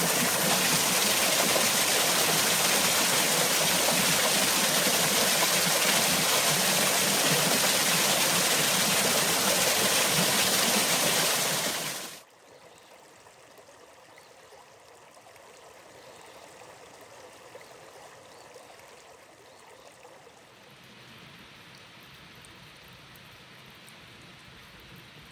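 Rushing stream water, a loud even flow, that cuts off abruptly about halfway through and gives way to a much fainter, steady hiss of water.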